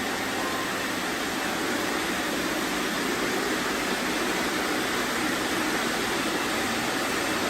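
Many robot vacuums running together: a steady, even whirring of their motors and brushes.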